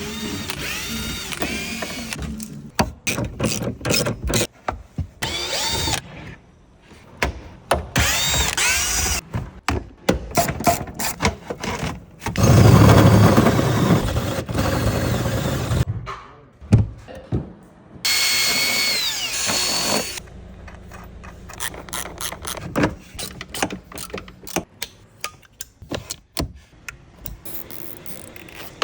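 Installation work on a car with power and hand tools: a power tool runs in short spurts among clicks, ratcheting and knocks. Near the middle, a louder, deeper steady run lasts a few seconds.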